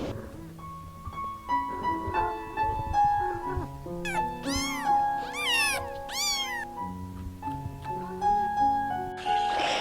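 A cat meowing several times in quick succession in the middle, over a gentle piano melody.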